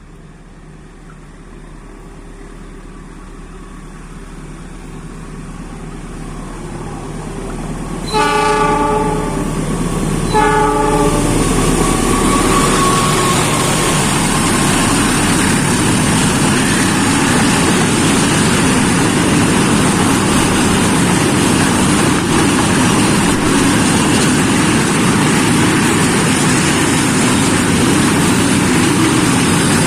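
A train approaching and growing steadily louder sounds its horn twice: a longer blast about eight seconds in and a short one about two seconds later. It then passes close by with a loud, steady rolling rumble of the wheels on the rails.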